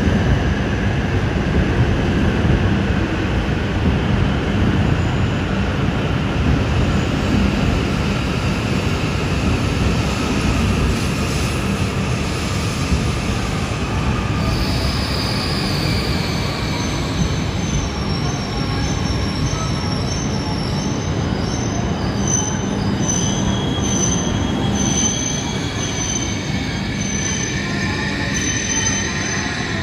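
An E5 series Shinkansen train running slowly along the platform with a steady, loud rumble. A high squeal sets in about halfway through and comes and goes toward the end.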